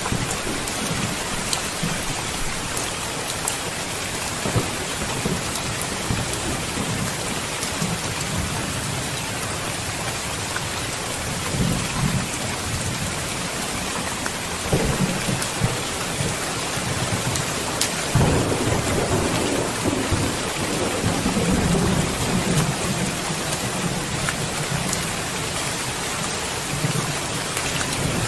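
Steady heavy rain with thunder rumbling low several times, the longest and loudest roll a little past the middle.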